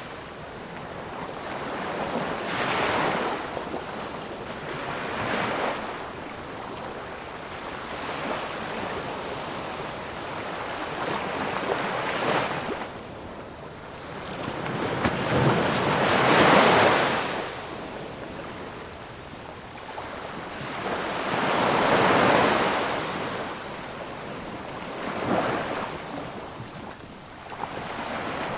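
Ocean waves breaking and washing in, rising and falling every few seconds, the biggest surges a little past halfway and about three-quarters through.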